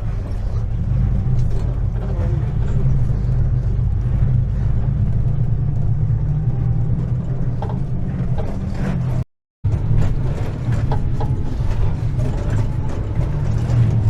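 Vehicle engine droning with rattles inside the cabin while driving over a rough dirt track. The sound cuts out completely for a moment about nine seconds in, then carries on.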